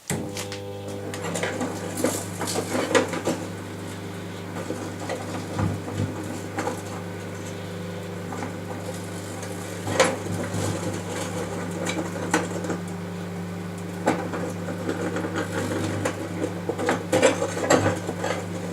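Microwave oven switching on and running with a steady electrical hum, over which come irregular crackling and sharp pops from arcing and heating as a small car light bulb, broken glass and a battery cook inside.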